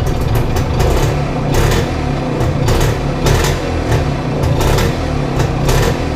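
Small engine running steadily and loudly, with a busy, crackly mechanical sound; it cuts in abruptly just before and runs unbroken.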